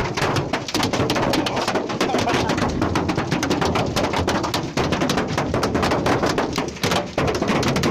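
Hailstones pelting a hard surface: a loud, dense, continuous clatter of many irregular impacts.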